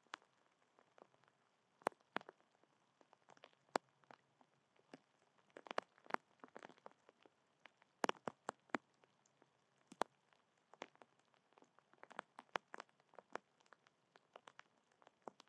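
Raindrops tapping irregularly on a hard surface close to the microphone: sharp, separate ticks coming a few at a time at uneven intervals.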